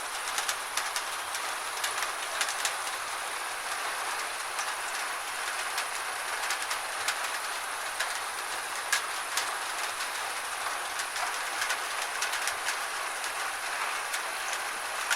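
Gentle rain: a steady hiss with irregular sharp ticks of single drops landing close by.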